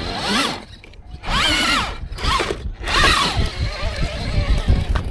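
RC rock crawler's electric motor whining through about four short bursts of throttle, each rising then falling in pitch, with brief pauses between them. A rougher, lower noise without a clear pitch follows near the end.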